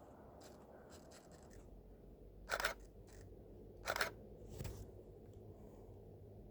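Canon EOS 1200D DSLR shutter and mirror clacking twice, about a second and a half apart, with a fainter click shortly after the second.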